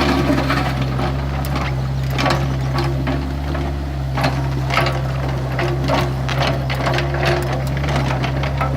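Excavator's diesel engine running steadily, with scattered sharp metallic clanks and knocks over it.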